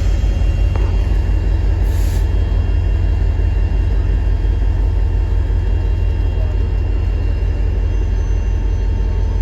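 Big Boy steam excursion train rolling past with a steady low rumble. A short hiss of air comes about two seconds in.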